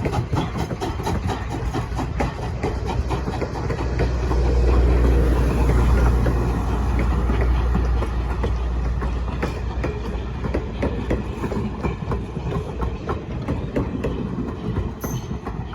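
A train rolling past, with a rapid run of clicks from its wheels on the rails and a low rumble that swells to its loudest about four to eight seconds in, then eases off.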